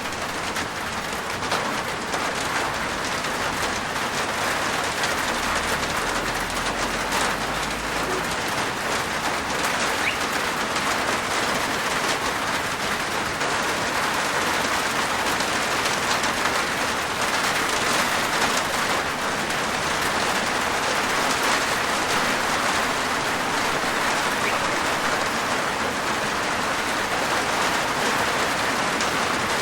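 Steady rain falling on a rooftop, a dense even patter of drops.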